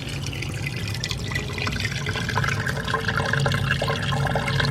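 Dishwasher draining: a steady low hum under continuous gurgling and splashing water as it pumps out. It is now draining freely, since the clogged garbage disposal it drains into has been cleared.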